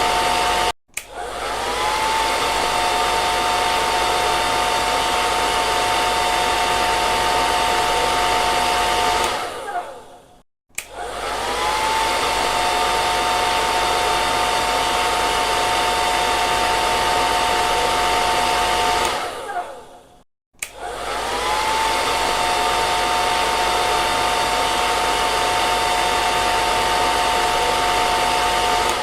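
Electric hair dryer running with a steady rush of air and a motor whine. It cuts out about every ten seconds, three times here, and comes straight back on, the whine rising briefly as the motor spins back up to speed.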